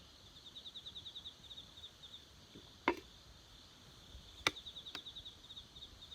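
Two sharp cracks from a wood campfire, about three seconds in and about four and a half seconds in, the second followed by a fainter pop. Behind them, a high rapid chirping trill of about ten chirps a second comes twice.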